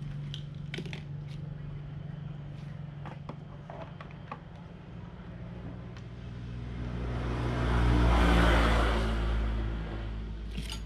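A steady low engine hum with scattered light clicks, and a louder rushing engine sound that swells up and fades away about eight seconds in, like a motor vehicle going past.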